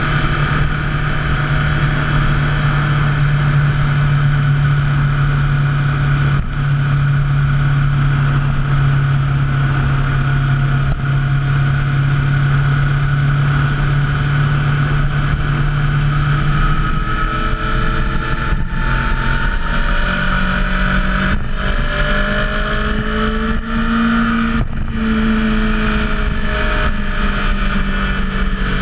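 Motorcycle engine running under way at a steady pitch, then, from a little over halfway through, the engine note rises and falls as the speed changes, with a few brief dips.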